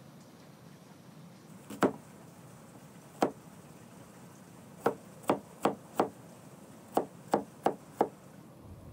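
Large kitchen knife chopping peeled carrots against a wooden cutting board: two single chops, then two quick runs of four chops, about three a second.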